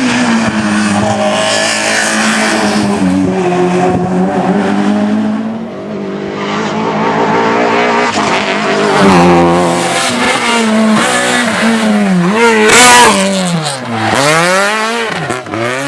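Rally car engine running hard at high revs through the gears. Near the end the revs drop and climb sharply several times in quick succession.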